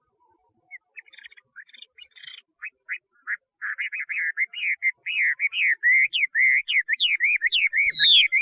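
Chinese hwamei singing. After a few scattered whistled notes it breaks into a fast run of rapidly repeated swooping whistles, which grows louder and climbs higher in pitch near the end.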